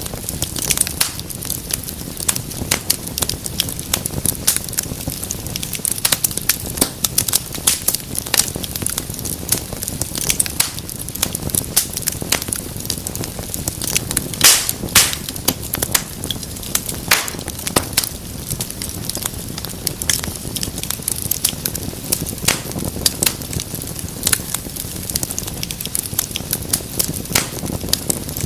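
Wood fire burning in a fireplace, crackling steadily with many sharp pops over a low rumble of flame, a few louder snaps about halfway through.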